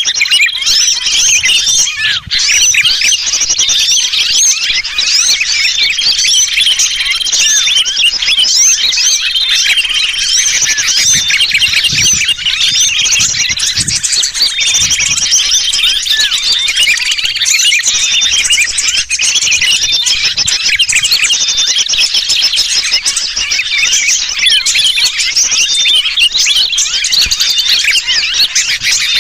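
Bird-lure recording: a dense, continuous chorus of many small birds chirping noisily, mixed with the distress calls of a trapped sooty-headed bulbul, the kind of alarm sounds used to draw birds in.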